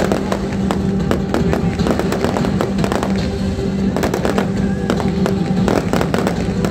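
Fireworks display: a rapid run of bangs and crackles, several a second, with music playing underneath.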